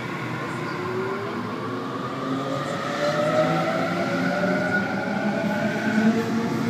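Sydney Trains Waratah (A set) electric train pulling away from the platform, its traction motors whining in several tones that rise slowly in pitch and grow louder as it gathers speed.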